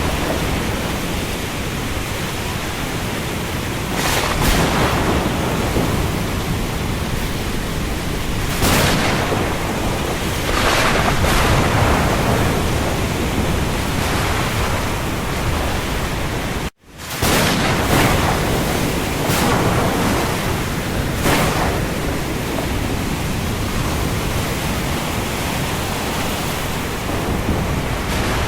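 Rain falling on the open sea: a steady dense hiss with louder rushes every few seconds. About seventeen seconds in, the sound cuts out completely for a moment, then resumes.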